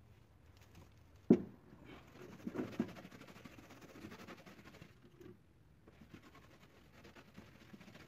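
One sharp knock about a second in, then a few lighter knocks and soft scratching strokes, like a brush or tool worked over wood, that die down about two-thirds of the way through.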